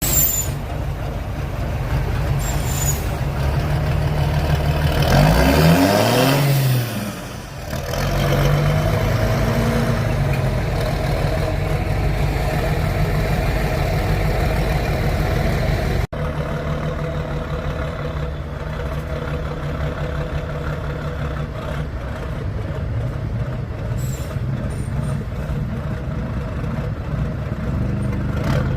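Heavy six-wheel-drive trial truck engine working off-road: it revs up steeply about five seconds in, drops away a second or two later, then runs on steadily under load.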